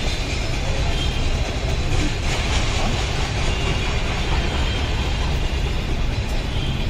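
Steady rumble of a train running, loud and unbroken.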